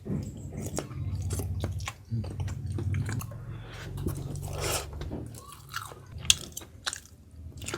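A person chewing and biting food close to the microphone, wet chewing broken by short crunches and clicks.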